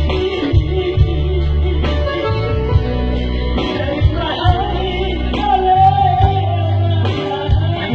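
A song with a voice singing over guitar and a heavy bass accompaniment.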